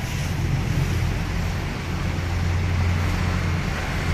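Motor vehicle engine idling steadily, a low even hum.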